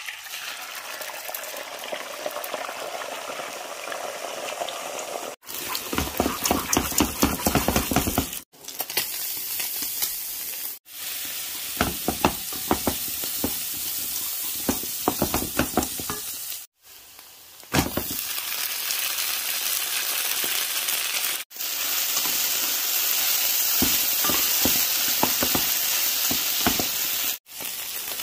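Food frying in hot oil in a pan, a steady sizzle that starts as beaten egg hits the oil. A wooden spatula stirs and scrapes at intervals, and the sound cuts off and comes back several times.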